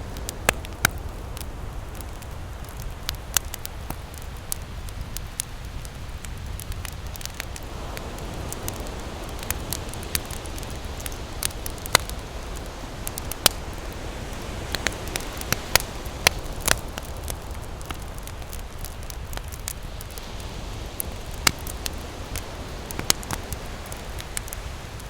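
Wood campfire crackling, with sharp, irregular pops, over a steady low rumble of ocean surf.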